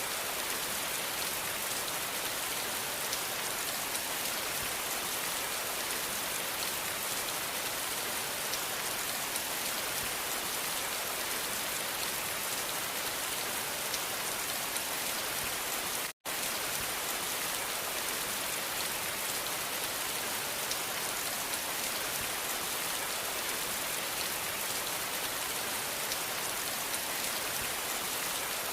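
Steady rain falling on a surface, a dense even hiss of drops, cutting out to silence for a split second a little past the middle.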